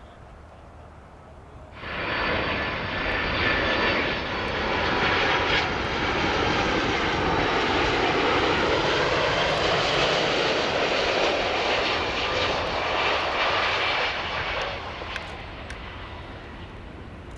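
Jet airliner passing low overhead on its landing approach: a loud rushing jet-engine noise with a faint steady whine, starting abruptly about two seconds in, its tone slowly dipping and rising as the aircraft goes over, then dropping away near the end.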